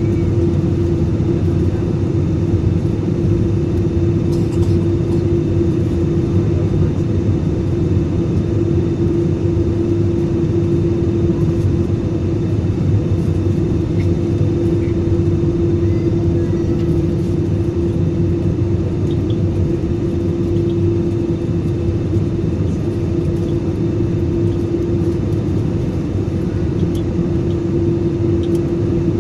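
Airbus A320-200's engines droning steadily: an even rumble with one constant hum running through it, unchanging in pitch or loudness.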